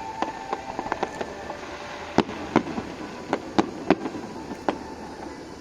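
Fireworks going off: a quick, irregular run of sharp bangs and cracks, the loudest cluster coming about two to five seconds in.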